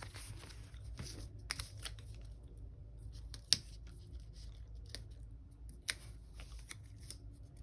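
Sticker sheets and planner paper being handled: soft rustling and small clicks as stickers are peeled and pressed down, with sharper clicks about three and a half seconds in and again near six seconds.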